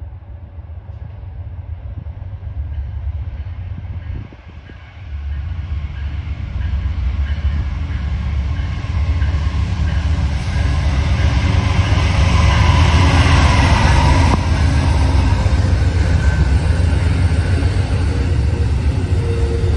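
A train approaching and passing close by. Its low rumble builds steadily for about ten seconds, peaks, and stays loud.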